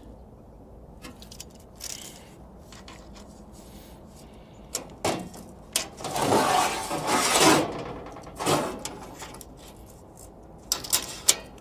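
Tools and sheet metal being handled on a workbench: a few scattered clicks and knocks, and a longer scraping rattle about six seconds in that is the loudest part.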